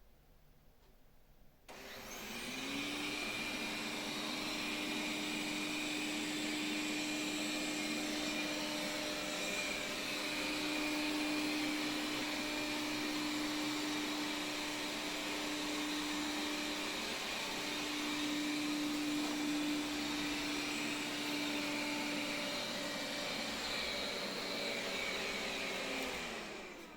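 Xiaomi Mijia 1C robot vacuum running: its suction fan spins up with a rising hum about two seconds in, runs steadily with a whirring hiss for over twenty seconds, then winds down and stops near the end.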